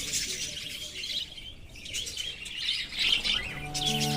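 A colony of budgerigars chirping and chattering, many quick overlapping high calls. Background music with sustained notes comes in near the end.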